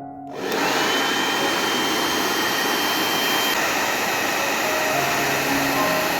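Hair dryer switched on and running steadily, its fan blowing air with a thin whine on top that drops away about halfway through.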